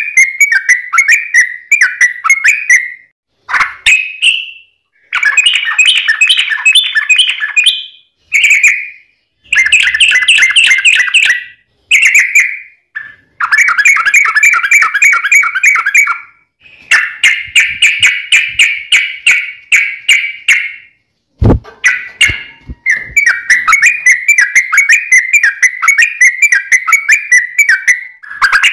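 Yellow-vented bulbul singing in a long run of fast, chattering phrases, each one to four seconds long with brief pauses between them. A sharp click comes about three quarters of the way through.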